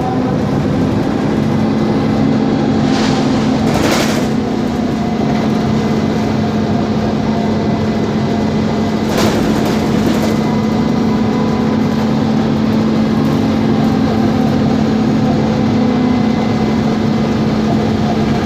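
Mercedes-Benz Conecto G articulated city bus running with its OM457LA straight-six diesel, a steady hum-whine holding one pitch, with short hisses a few seconds in and again about halfway.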